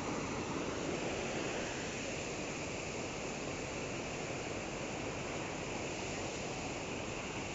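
Floodwater rushing steadily over an overflowing weir, an even, unbroken rush of water.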